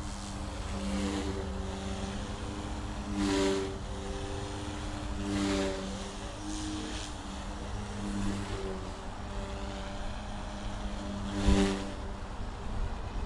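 Goosky S1 collective-pitch RC micro helicopter in flight: the electric motors and rotors hum steadily in several tones, swelling a few times into rushes of blade noise as the controls are worked. A brief thump near the end is the loudest moment.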